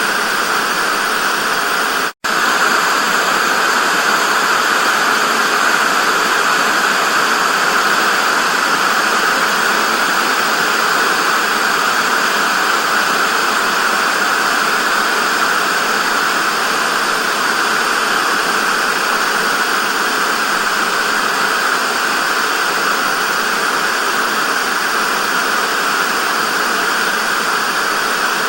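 Television static: a steady, loud hiss, strongest in the upper-middle range with no low rumble. It drops out for a split second about two seconds in.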